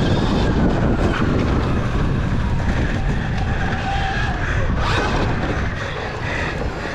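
Sur-Ron electric dirt bike ridden hard in a pit bike race: heavy wind rumble with a motor whine that rises and falls, and a short louder burst about five seconds in.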